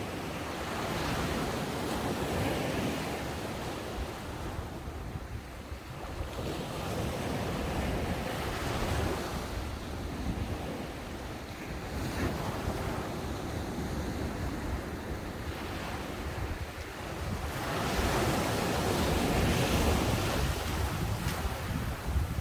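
Ocean waves breaking and washing up the shore, the surf swelling and easing about three times and loudest near the end, with wind rumbling on the microphone underneath.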